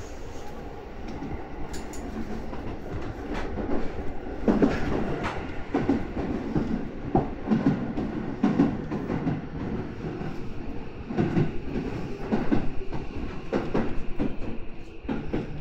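Electric commuter train heard from inside the passenger car: a steady running rumble, with the wheels clattering over the track in irregular knocks from about four seconds in.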